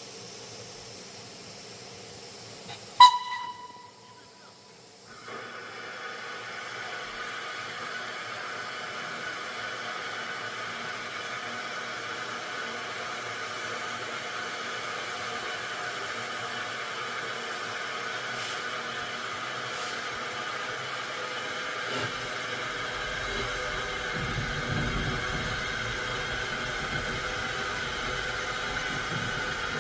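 A steam locomotive's whistle sounds one short blast about three seconds in. After it comes a steady hiss of steam that grows slowly louder, with a low rumble joining in the last several seconds.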